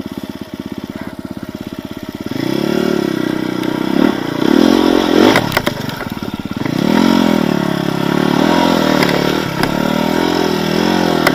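Enduro dirt bike engine running at low revs for about two seconds, then pulling under load with the revs rising and falling as the rider feeds the throttle gently through rough forest ground. Clattering knocks sound around the middle.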